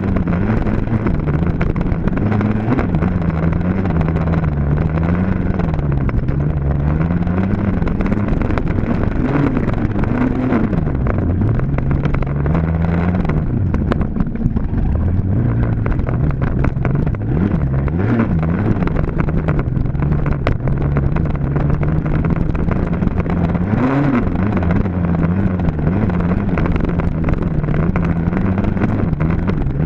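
Dirt bike engine racing, its pitch rising and falling over and over as the throttle opens and closes and the gears change.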